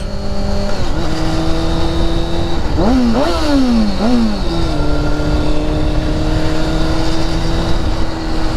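Motorcycle engine running at highway speed under a steady rumble of wind. About three seconds in, the engine note rises and drops a few times in quick succession, as in shifting up through gears, then holds steady.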